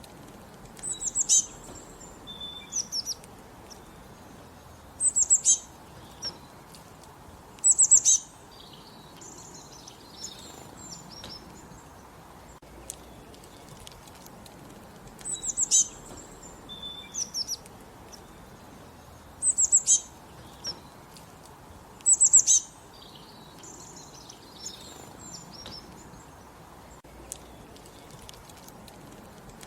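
A small songbird singing: short bursts of high, quickly falling chirps every few seconds, over a steady low background hiss. The same run of phrases comes round again about every 14 seconds.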